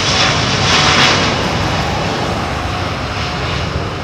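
Jet engines of a Citilink Airbus A330-900neo (Rolls-Royce Trent 7000 turbofans) at takeoff thrust: a loud, steady jet roar that peaks about a second in and then eases slightly.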